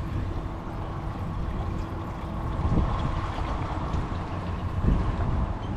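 Wind buffeting the microphone and water sloshing around the fishing kayak, with a faint steady hum underneath and a couple of low thumps.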